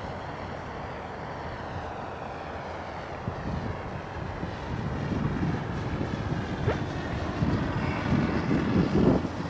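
Electric RC model P-51D Mustang in flight: a steady drone from its motor and propeller. From a few seconds in, wind buffets the microphone with rough low gusts that grow stronger toward the end.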